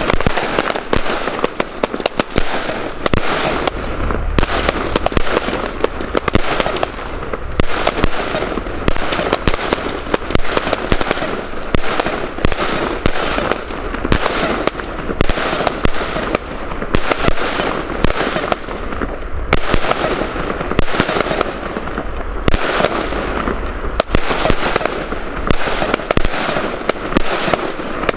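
Salute and smoke comet firework batteries firing together: a rapid, unbroken string of sharp bangs, many a second.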